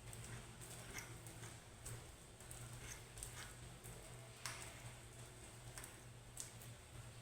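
Faint, irregular light clicks and taps, about one or two a second, over a steady low hum.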